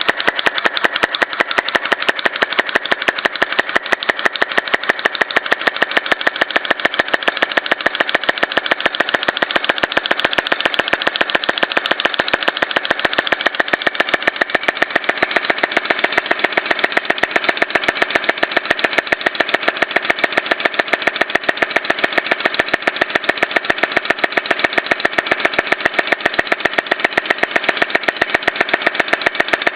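Small homemade model engine, built from 1950 Popular Science plans, running steadily with a rapid, even clicking beat.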